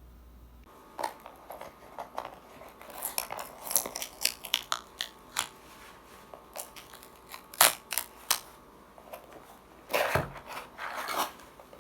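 A brake-pad box being opened and its packaging handled: an irregular run of sharp crinkles, rustles and clicks, the loudest a little past halfway.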